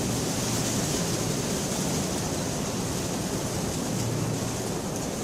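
Steady rain falling, an even hiss with a low rumble underneath that swells now and then.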